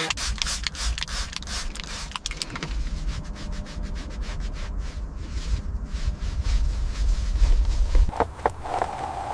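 Rubbing and scraping strokes with many sharp clicks over a steady low rumble, with a few short squeaks near the end.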